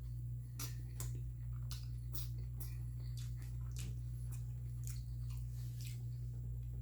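A person chewing food close to the microphone, with irregular wet clicks and smacks. A steady low hum runs underneath.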